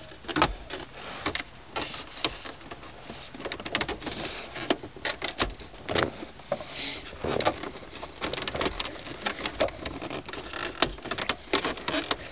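Plastic car trim being handled and pressed into its clips: an irregular run of clicks, knocks and scrapes.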